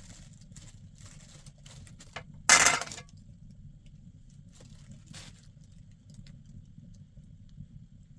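Hard objects being handled: a few faint scrapes, then one loud clatter lasting about half a second, two and a half seconds in, over a steady low hum.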